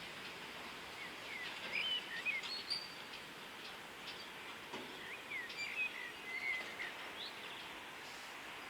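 A songbird chirping in two short bursts of quick rising and falling notes, over a faint steady hum of background noise.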